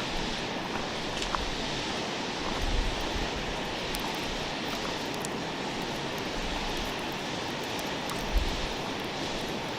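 Campfire cooking ambience: a steady hiss with scattered small crackles, and two soft low thumps, one near the middle and one near the end.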